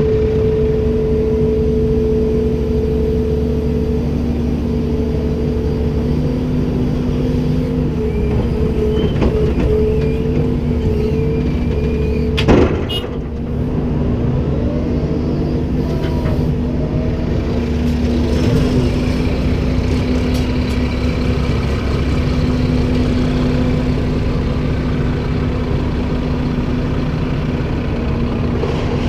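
Komatsu PC290-10 excavator's diesel engine running steadily, with a constant pitched hum over the engine note. A single sharp knock comes a little before halfway through.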